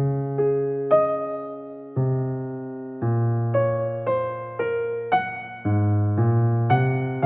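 Soft background music: an electric piano playing slow, sustained chords and notes, a new one struck every half second to a second.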